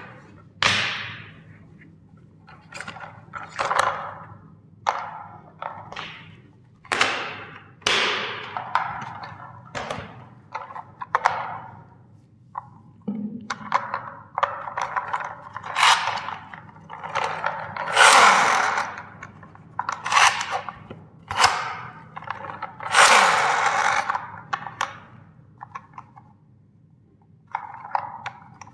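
Plastic toy vehicles being crushed: a long run of separate sharp cracks and thunks as the plastic snaps, with longer crunching stretches about two-thirds of the way through.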